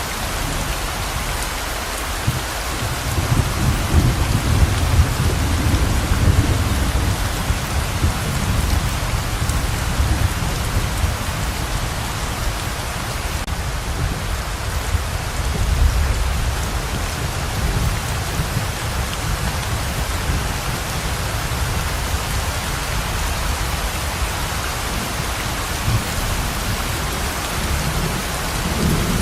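Heavy rain pouring steadily, with low rolling thunder rumbling in from about two seconds in and again near the middle.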